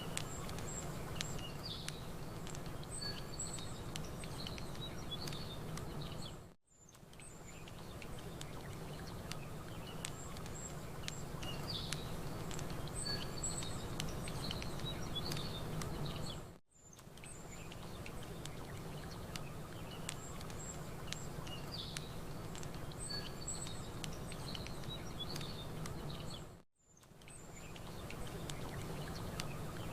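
Campfire crackling with small clicks over a steady low wash of water, while small birds chirp in short high phrases. The ambience is a loop about ten seconds long: three times it dips briefly to near silence and fades back in.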